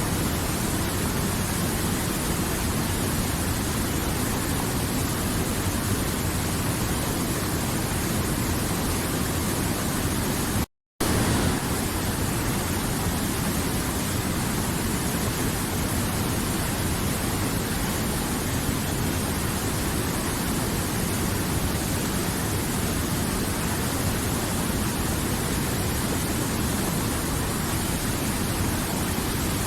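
River water flowing, a dense, steady rush. It cuts out completely for a fraction of a second about eleven seconds in, then carries on unchanged.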